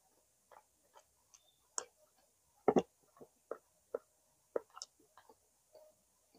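A person chewing food with irregular short mouth clicks and smacks. The loudest is a double smack a little under three seconds in.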